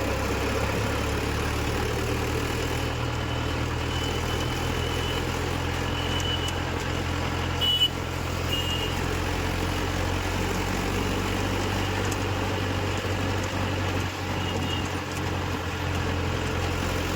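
Tractor diesel engine running steadily while driving, with a brief sharp click about eight seconds in.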